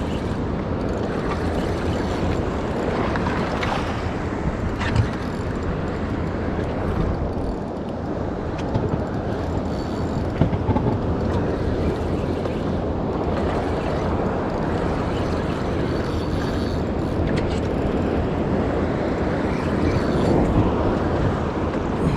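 Steady wind rumble on the microphone, mixed with waves washing around a boat.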